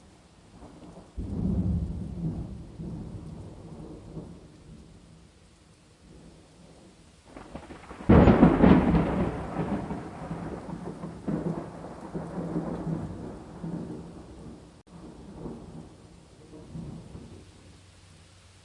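Thunder in a rainstorm: a rumble starts about a second in and fades, then a louder clap about eight seconds in rolls on and dies away over the following several seconds. Rain hisses steadily underneath.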